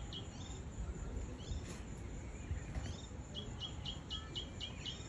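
A bird calling in short high chirps: a few scattered notes at first, then a quick evenly spaced series of about four chirps a second starting a little past three seconds in, over a low steady rumble.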